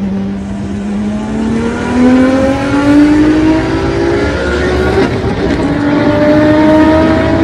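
Car engine accelerating hard under full throttle, heard from inside the cabin. Its note climbs steadily, with a shift about five seconds in, after which it climbs again.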